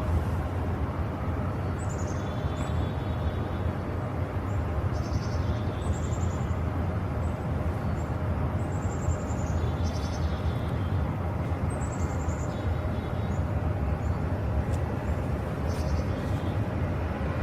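Snowstorm outdoor ambience: a steady low rumble of wind on the microphone, with small birds giving short, high, falling chirps every couple of seconds.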